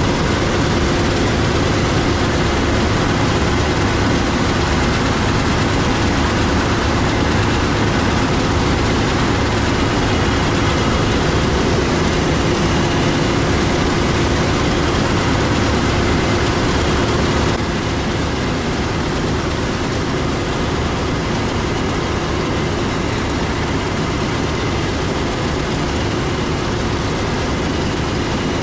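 Heavy diesel harvest machinery running steadily: a constant engine drone with a steady hum through it, stepping down slightly in level a little over halfway through.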